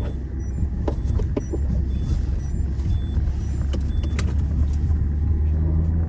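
Peugeot 207's engine running, heard from inside the cabin as a steady low drone, with a few sharp clicks about a second in and another around four seconds.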